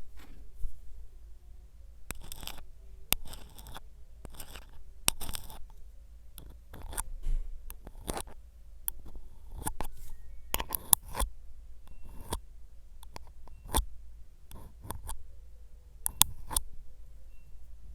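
Close-up handling sounds: short scratchy strokes and sharp clicks, coming every second or so.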